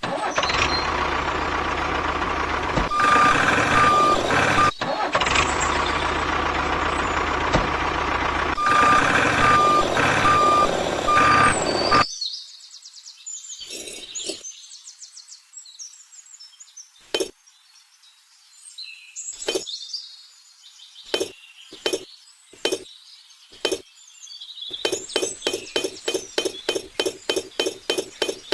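Truck engine running with intermittent reversing beeps, cutting off abruptly about twelve seconds in. It is followed by quieter scattered short chirps and clicks, with a quick run of them near the end.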